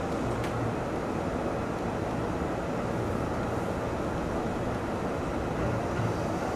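Steady running noise of an E531 series electric train heard from on board: an even rumble of wheels and running gear with no change in level.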